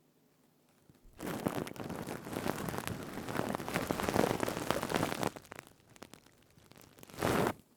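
A stainless-steel scrubber scrunched by hand close to the microphone gives a dense, crackly rustle for about four seconds, starting about a second in. A shorter scrunch follows near the end.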